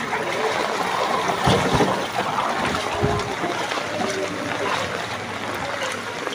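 Steady splashing and running floodwater noise, with a couple of dull low thumps about a second and a half and three seconds in, and faint voices in the background.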